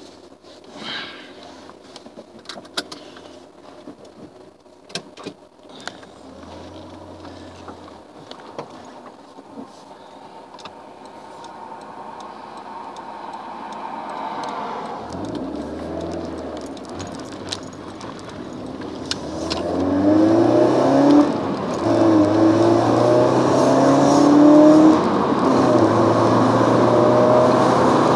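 Alfa Romeo GTV Twin Spark 2.0's four-cylinder engine, heard from inside the cabin: quiet at first with a few light clicks, then revving as the car pulls away about halfway through. It grows loud and accelerates hard, the pitch climbing in repeated sweeps through the gears.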